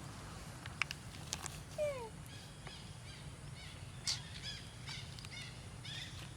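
Animal calls outdoors: a short call falling in pitch about two seconds in, then a run of quick high chirps, about three a second. A few sharp clicks come in the first second and a half.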